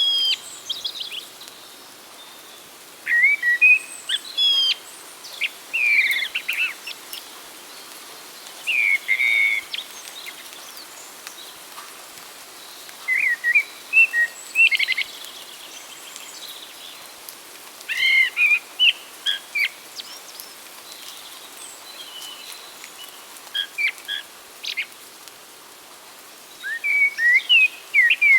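Songbirds singing: short phrases of quick chirps and whistles every few seconds, over a faint steady background hiss.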